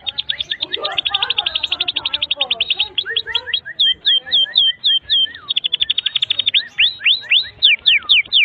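Domestic canary singing a long, continuous song: fast trills of rapidly repeated high notes, broken about midway by a run of slower down-slurred notes, then a fast trill again and a series of quick rising sweeps near the end.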